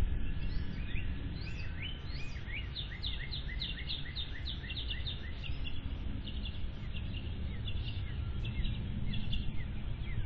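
A songbird singing a fast run of short, repeated chirps, about four or five a second, starting about a second in and thinning out near the end, over a steady low rumble.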